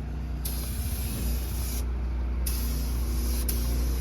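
Compressed air hissing from a pneumatic tool in on-off bursts. It starts about half a second in, stops for about half a second just before two seconds, then resumes, all over a steady low hum.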